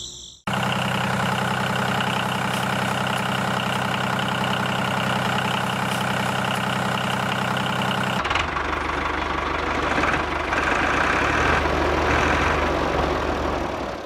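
Mini tractor engine running steadily. About eight seconds in, the sound changes abruptly to a rougher, noisier running with a deeper rumble.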